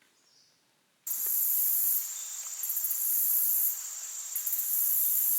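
A loud, very high-pitched insect chorus starts suddenly about a second in and buzzes on, swelling and easing in loudness every second or so.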